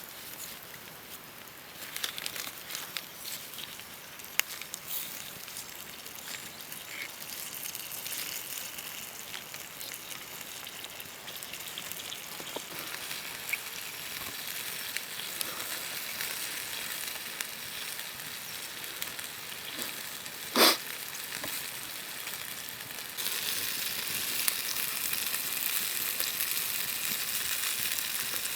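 Food sizzling in a pan over a campfire: a steady frying hiss with scattered small crackles and clicks. There is one sharp click about two-thirds of the way through, and the sizzle turns suddenly louder a few seconds later.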